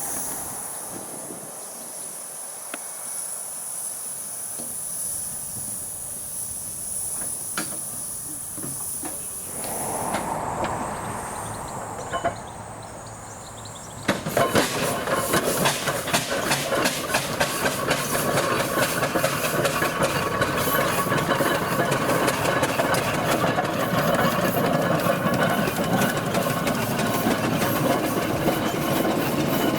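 Steam traction engine: a quiet hiss while it stands, then, after an abrupt change about halfway through, a louder, continuous fast clatter of the engine under way on the road.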